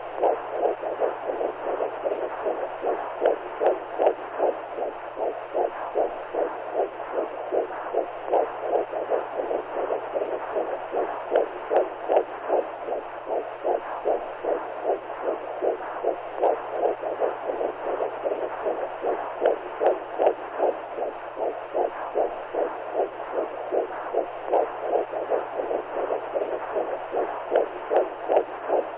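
Womb sound for soothing newborns: a rushing whoosh pulsing in quick, even heartbeat-like beats, over a faint steady low hum.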